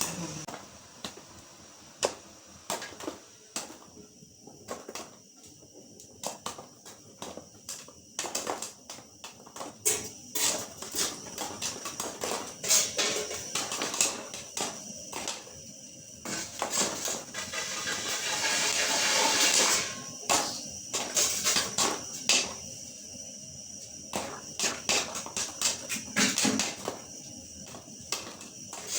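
Popcorn kernels popping in a microwave-popcorn paper bag heated over a gas burner: many sharp, irregular pops over a steady high hiss, with a louder rushing hiss for a couple of seconds about two-thirds of the way in.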